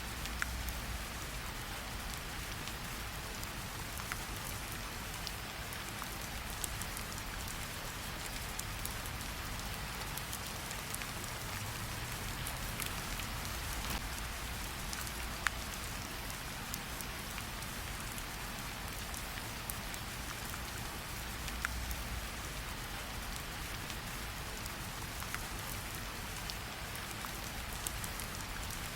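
Steady rain falling, an even hiss, with scattered sharp pops of a crackling campfire.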